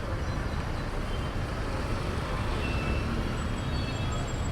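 Steady low rumble of a motorcycle ride on a road with traffic: engine and wind noise on the microphone.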